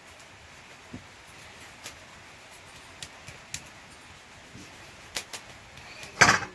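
Scattered light clicks and knocks over a faint steady hiss, with one louder knock near the end.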